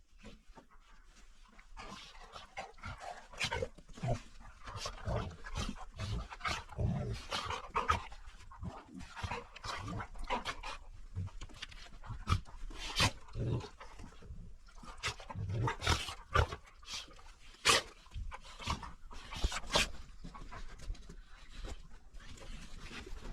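A dog panting, with scattered clicks and knocks.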